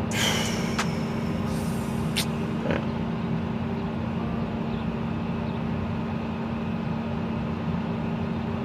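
A motor vehicle engine idling steadily, a constant hum. There are a few brief knocks and rustles in the first few seconds.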